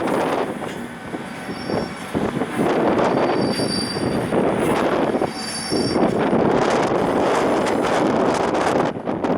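Container freight wagons rolling slowly past on the track, their wheels giving several short, high squeals.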